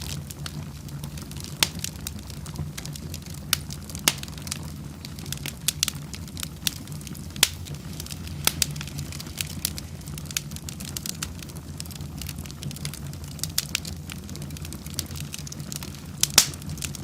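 Wood fire in a fireplace crackling: irregular sharp pops and snaps over a steady low sound of the flames, with one louder pop near the end.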